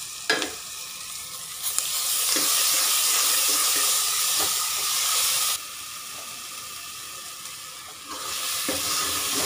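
Sliced onions and ginger-garlic paste sizzling in hot oil in a pressure cooker, stirred with a steel ladle. The sizzle gets louder about two seconds in, drops back about halfway through and swells again near the end, with a sharp click of the ladle at the start.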